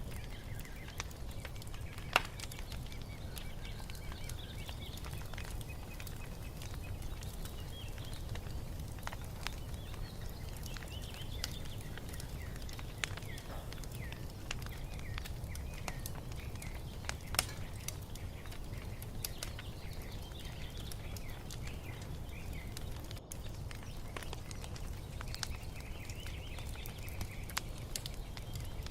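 Wood fire crackling in a fireplace: a steady low rumble with scattered sharp pops, the loudest about two seconds in and again about halfway through, with birds chirping faintly behind it.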